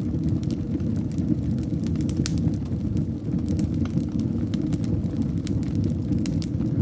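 Fireplace fire burning, a steady low rumble of flames with frequent sharp crackles and pops several times a second.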